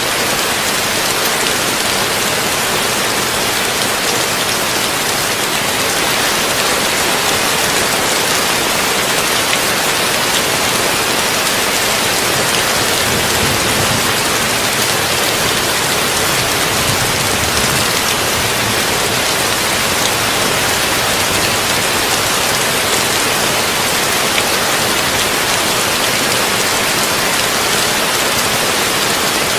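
Heavy rain falling on a tin roof: a dense, even hiss of drops that holds steady throughout, with no thunder.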